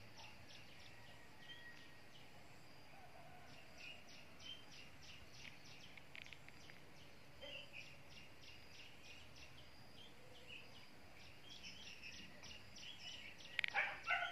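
Small birds chirping faintly: many short, high chirps in quick runs, over a soft outdoor background, with a brief louder noise near the end.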